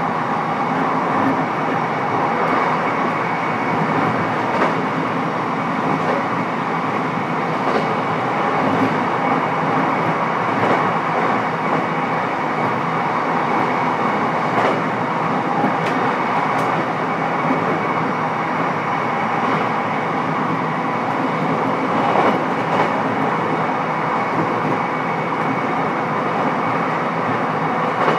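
Interior running sound of a JR East E129 series electric multiple unit, heard in the motor car: a steady rumble of wheels on rail with a few scattered clicks from the track.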